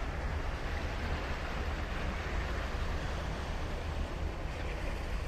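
Ocean surf breaking and washing on the beach: a steady rush of waves over a low rumble, swelling slightly about two seconds in.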